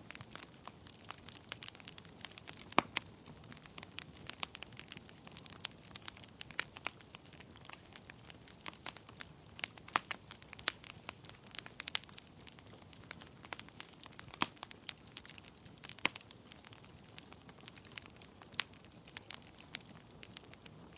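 Wood logs burning in a fireplace, crackling: a soft steady hiss of flame with frequent sharp, irregular pops and snaps, several of them louder than the rest.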